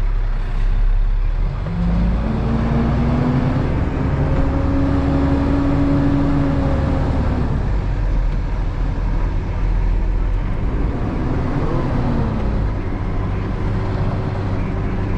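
Truck engine running as the truck drives, with a deep steady rumble. Its pitch climbs over a few seconds as it speeds up, then eases off, and it picks up briefly again near the end.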